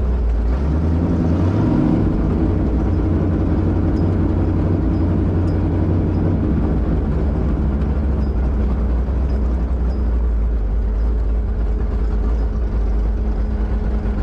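1972 Plymouth Duster's 408 V8 running under way: a steady low drone that rises in pitch briefly about a second in, then settles to an even cruise.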